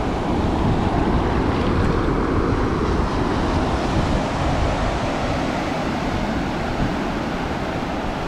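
Ocean surf washing in steadily on a sandy beach, with wind buffeting the microphone.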